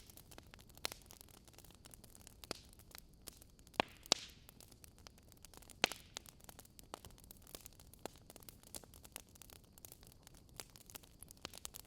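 Burning wood logs crackling, with irregular sharp pops over a faint steady hiss. The loudest pair of pops comes about four seconds in and is followed by a brief hiss.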